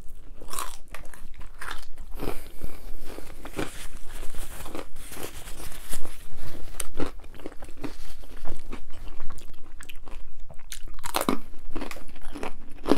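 Close-miked biting and chewing of a hard gluten-free pizza crust: many sharp, irregular crunches.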